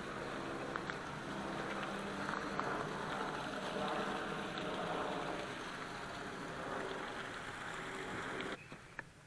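Steady mechanical hum with a hiss, like a running engine or motor, cutting off abruptly near the end.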